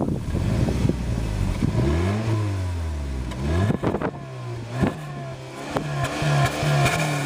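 2012 Mazda 6's 2.5-litre four-cylinder engine revved in park, revs rising, holding and dropping, then a quick blip. Near the end it is held against the 4,500 rpm park rev limiter, and the note stutters rapidly as the limiter cuts in and out.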